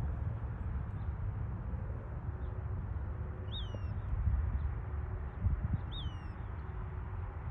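Western wood-pewee calling twice, about two and a half seconds apart; each call is a short high note that slurs downward. A steady low rumble runs underneath.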